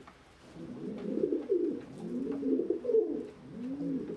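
Several domestic pigeons cooing at once, overlapping low rising-and-falling coos.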